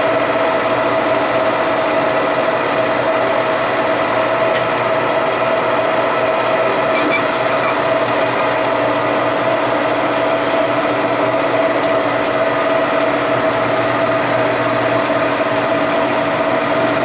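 Machine tool running steadily under power feed during a light finishing (spring) boring pass, with a constant mechanical hum. Light ticking joins in over the last few seconds.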